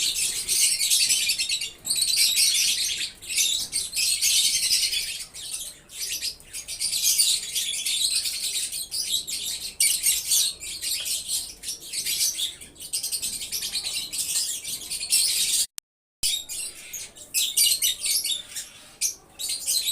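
A flock of Fischer's lovebirds chattering with dense, shrill chirps and tweets that overlap continuously. The sound cuts out for half a second about sixteen seconds in.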